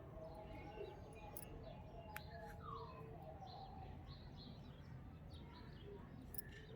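Faint bird chirps and a falling whistled note over a low, steady background noise, with a few sharp clicks.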